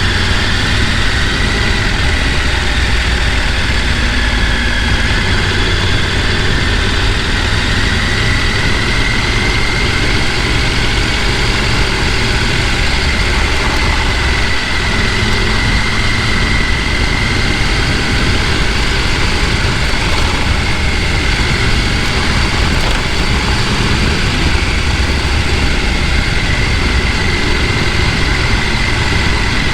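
Rushing water of a mountain stream flowing over rocks, a loud steady rush with a faint steady high tone above it.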